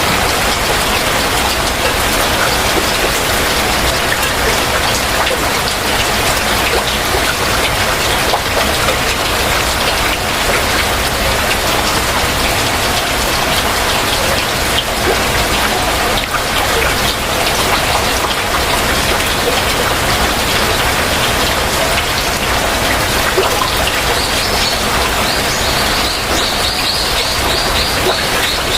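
Heavy rain falling steadily, a dense even patter. Near the end a bird calls over it with a quick run of short, high repeated notes.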